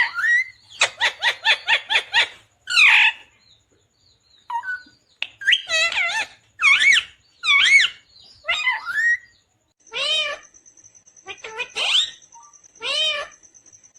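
Indian ringneck parakeet calling and chattering. A quick rattle of short notes comes first, then a string of separate squawky calls whose pitch wavers up and down.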